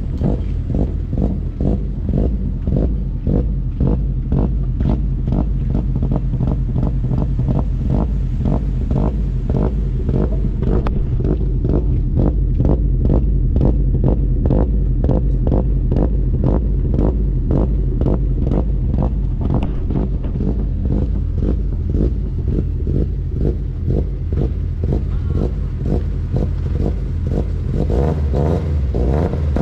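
A vehicle engine idling close by: a steady low rumble with an even, regular pulse.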